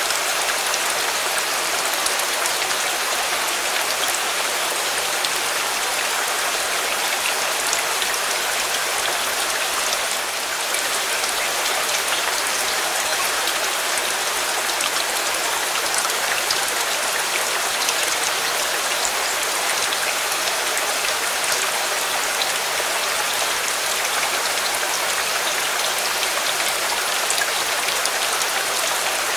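Steady rain falling, an even hiss with scattered small drop ticks, dipping slightly for a moment about ten seconds in.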